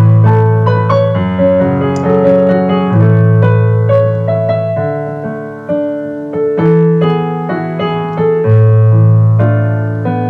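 Slow, gentle piano music: chords and single notes struck and left to fade, changing every second or two.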